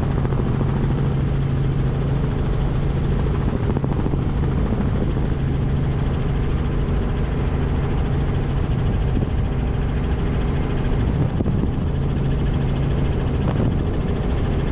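Helicopter in flight heard from inside the cabin: a steady drone of rotor and engine with a constant low hum.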